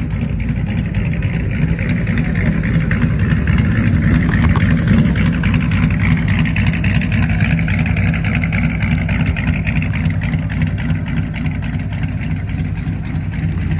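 Muscle car engine running at idle with a loud, deep rumble, swelling slightly about four seconds in.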